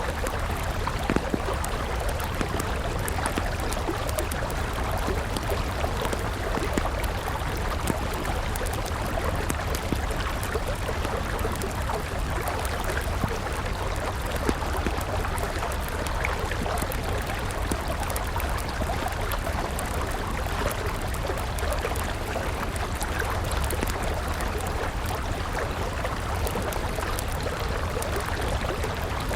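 Steady rush of a flowing river mixed with the crackle and pop of a wood campfire, with small pops scattered throughout.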